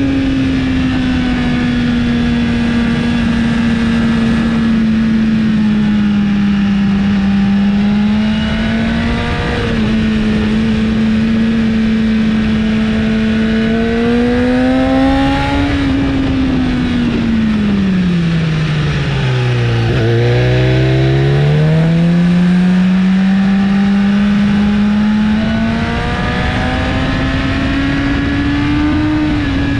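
A 2017 BMW S1000RR's inline-four engine through an Akrapovic exhaust, heard onboard at track speed with heavy wind noise. The engine note holds high with small rises and falls, breaks briefly about nine and a half seconds in, sinks to about half its pitch around twenty seconds in as the revs drop, then climbs back up, with another quick drop near the end.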